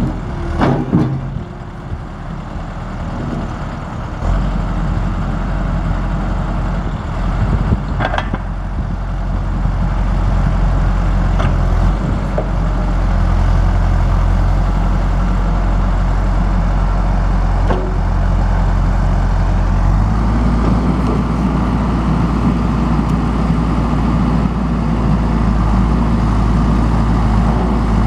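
John Deere 410J backhoe's four-cylinder turbo diesel running steadily, its note stepping up to higher revs about twenty seconds in, with a few short metallic clanks along the way.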